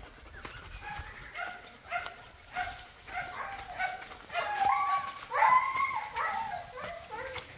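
Dogs yipping and whining in a string of short, high calls, some sliding in pitch. The calls grow louder and longer about halfway through.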